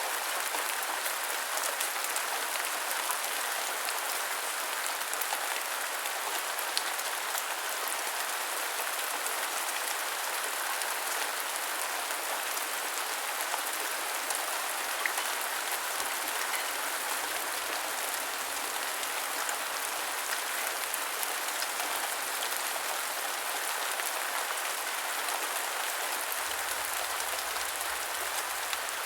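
Heavy rain falling steadily, an even hiss of water with scattered droplet ticks.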